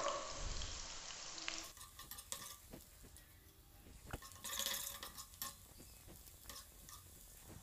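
Sliced okra frying in hot oil in an aluminium karahi: a faint sizzle, with scattered clicks of a metal spoon against the pan as it is stirred.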